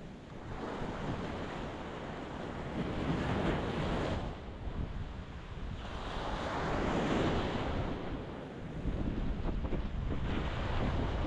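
Ocean surf breaking on a rocky shore, the wash swelling and fading twice. Low wind rumble on the microphone in the last couple of seconds.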